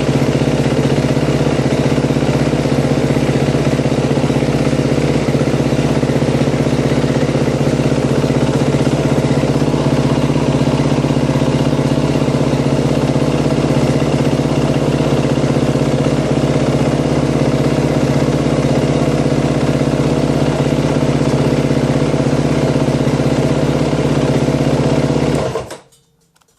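2013 Yamaha WR450F's 450 cc single-cylinder four-stroke engine idling steadily while being warmed up for an oil change, then switched off near the end, the sound dying away within about half a second.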